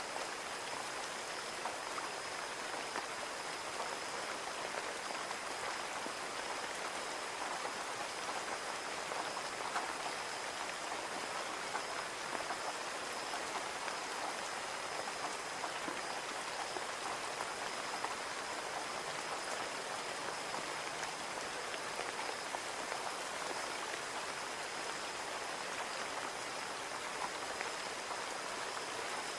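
Steady rain falling on a window, a continuous hiss dotted with the light ticks of individual drops striking the glass, and a faint steady high whine underneath.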